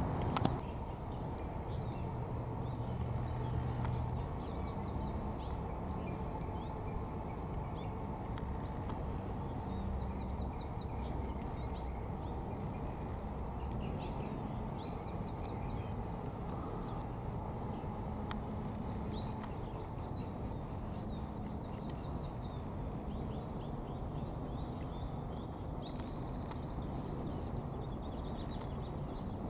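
A small bird chirping: very high, quick chirps in short runs of three to six, repeated again and again, over a steady low background rumble.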